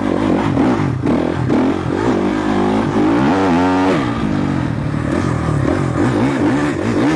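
Motocross dirt bike engine running hard, its pitch climbing and dropping with the throttle, with one sharp rev up and back down about halfway through.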